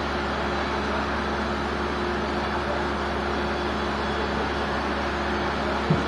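Sawmill machinery running with a steady drone and a faint hum, and a single short knock near the end.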